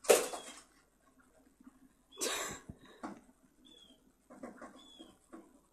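A bird loose indoors: short high chirps every second or two, with a loud flurry of wing flapping at the start and another about two seconds in, then a run of light taps and rustles.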